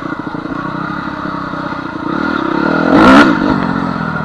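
Honda CR250 two-stroke dirt bike engine running while riding a trail, swelling to a louder surge about three seconds in before settling back. The bike is running on a bent radiator that is still holding coolant.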